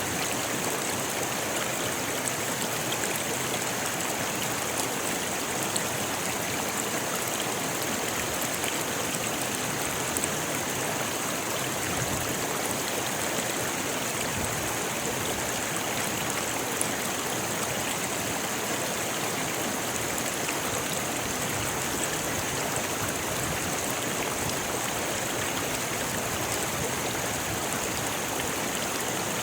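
Rocky river flowing steadily, water rushing and splashing over stones, with a bright hiss and a few faint splashes.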